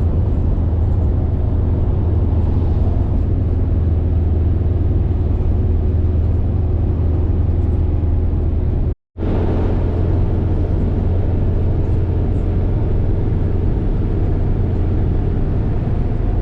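Minibus driving along the road, heard from inside the cabin: a steady low engine and road drone, with a momentary silent break about nine seconds in.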